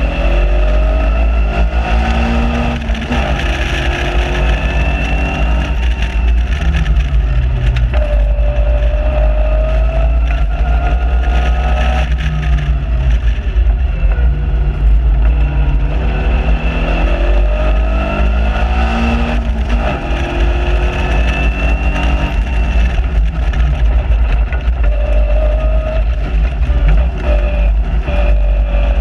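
Caterham Seven's four-cylinder engine heard from the cockpit on track, its pitch climbing for several seconds at a time as it accelerates and dropping off for corners and shifts, again and again. Heavy wind rumble on the microphone of the open car runs underneath.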